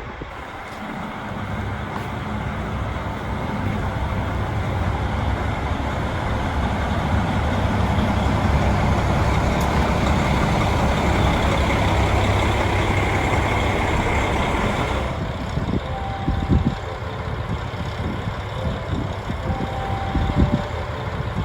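Diesel railcar running under power, its engine hum and running noise growing louder over about fifteen seconds. Then the sound changes abruptly to a quieter mix with low knocks and faint thin tones.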